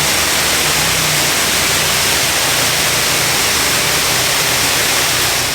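High-pressure water jets of a touchless automatic car wash spraying onto a vehicle, a loud steady hiss, with a low hum beneath.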